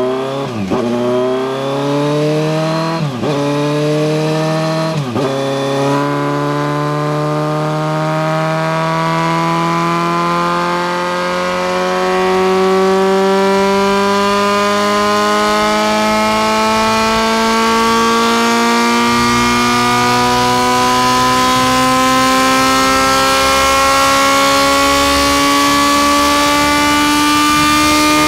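Kawasaki Z900's 948 cc inline-four running through an SC Project 4-2-1 full-system exhaust under hard acceleration. It climbs through the gears with three quick upshifts, the pitch dropping sharply at each, then holds one long, slowly rising pull for the rest.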